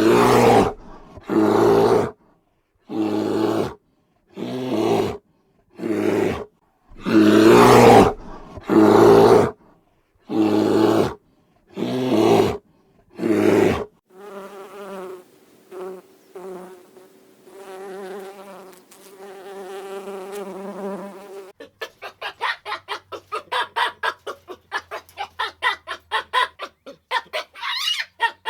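Wild animal calls in three parts: about nine loud calls, each under a second and evenly spaced; then a pitched, buzzing call that stops and starts; then a fast run of short pulsed calls, about five a second, near the end.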